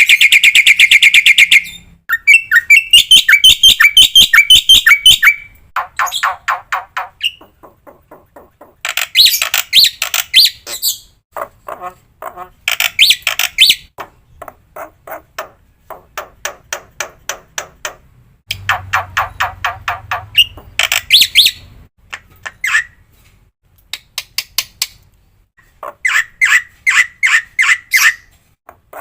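Black-winged starling song: a run of loud, varied phrases. Each phrase is a burst of fast, evenly repeated notes lasting a second or two, and the phrases change in pitch and character one after another, with short pauses between.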